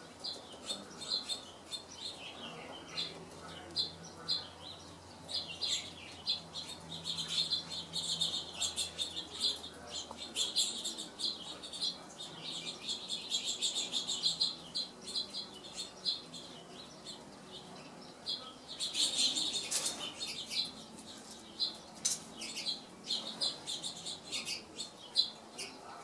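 Birds chirping: a steady stream of short, high chirps that grows busier in clusters around a third of the way in, about halfway, and about three-quarters through, over a faint low hum in the first half.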